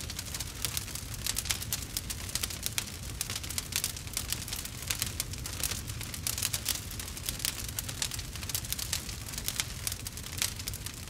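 Wood campfire burning, with dense, irregular crackling and popping over a low steady rumble.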